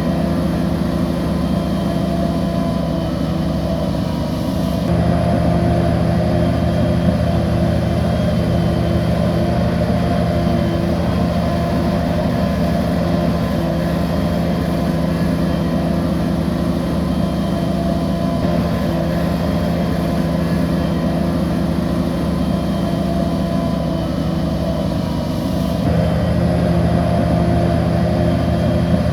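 Bulldozer's heavy diesel engine running steadily under load, rising in level about five seconds in and again near the end.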